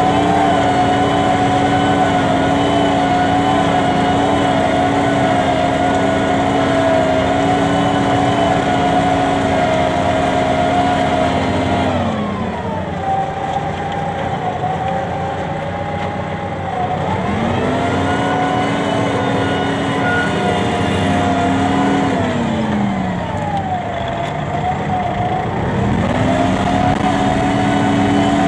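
New Holland 7610S tractor's diesel engine running steadily, then its speed falls and comes back up twice, once about midway and once near the end.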